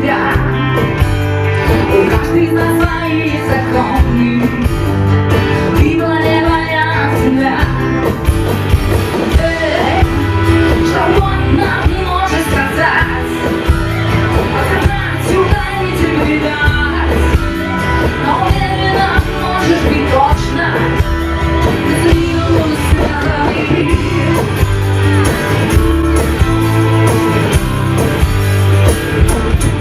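A live rock band playing, with singing over electric guitars, bass and drums.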